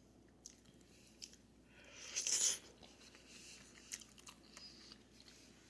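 A person chewing and biting meat off a beef soup bone: scattered small wet mouth clicks, with one longer, louder noisy stretch about two seconds in.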